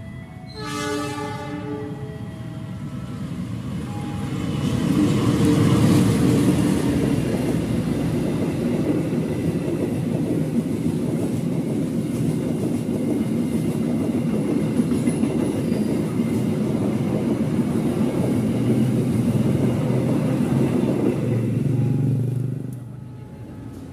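Train horn sounding briefly as a chord of several tones about a second in, then a train passing the level crossing with a loud, steady rumble of wheels on rail for about eighteen seconds, dropping away suddenly near the end.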